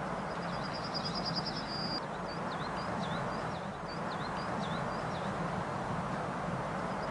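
Outdoor birdsong: a small songbird gives a rapid trill ending in a held note, then a run of short slurred whistles, over a steady background hiss of outdoor ambience.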